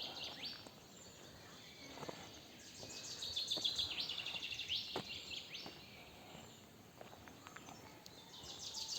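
Small birds singing, with quick runs of repeated high chirping notes that come in bursts, loudest about three to four seconds in and again near the end.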